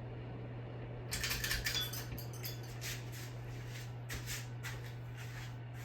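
Irregular light clinking and rustling of small hard objects being handled, starting about a second in, over a steady low hum.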